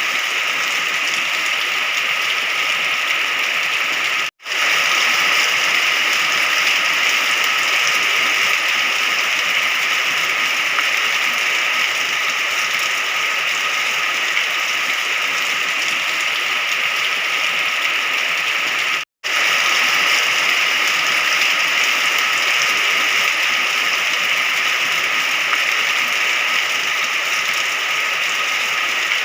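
Steady rain falling, an even hiss of drops. It cuts out for an instant twice, about four seconds in and again near the middle.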